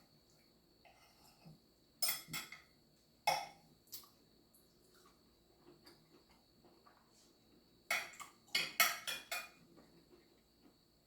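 Eating utensil clinking and scraping against a dish in short clusters of clicks: a few about two to four seconds in, and a longer run of clicks near the end.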